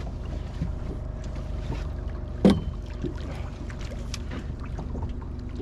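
Boat motor running steadily with a low hum, and a single sharp knock against the boat about two and a half seconds in.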